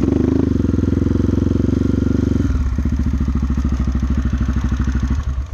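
Dirt bike engine revving hard with its wheel sunk in mud, then running at lower revs with an even, fast pulsing beat from about two and a half seconds in, and dropping away near the end.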